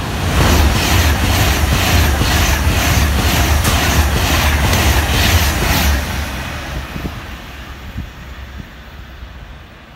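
Class 390 Pendolino electric express train passing at speed. A loud rush of wheels and air carries a regular clickety-clack of about two to three beats a second, then fades off after about six seconds as the train draws away.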